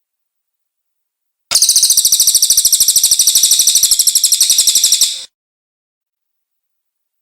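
Cililin bird singing a fast, high-pitched chattering trill that starts abruptly about a second and a half in and stops sharply about four seconds later.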